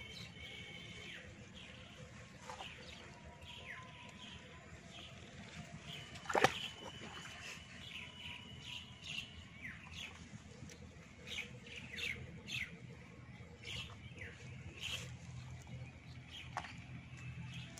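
Small birds chirping again and again in short falling calls over a steady low hum, with one sharp knock about six seconds in that is the loudest sound.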